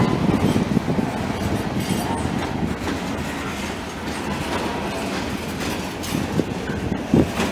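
Freight train cars rolling past: a steady low rumble of steel wheels on rail, with a few sharp clacks as the wheels cross rail joints, the clearest towards the end.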